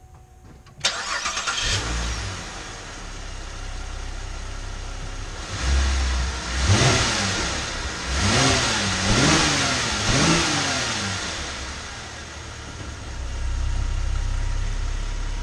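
The freshly swapped replacement engine in a Cadillac CTS starts about a second in and runs. It is then revved four times, each rev rising and falling in pitch, before it settles back to running.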